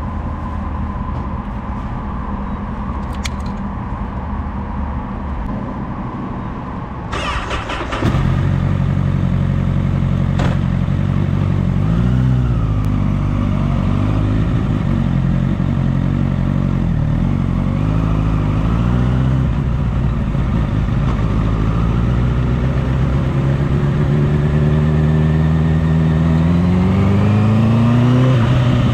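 Honda CBR1000RR inline-four engine running at steady revs, louder from about eight seconds in, with brief dips and rises in revs, then a long, smooth rise in revs near the end as the bike accelerates.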